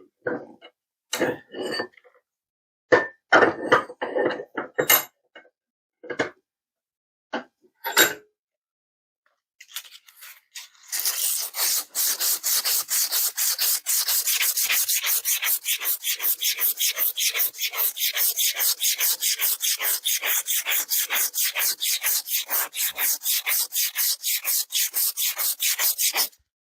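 Scattered short scrapes and knocks of metal parts being handled, then from about eleven seconds in a fast, even back-and-forth rasping of hand work on metal, about five strokes a second, which stops just before the end.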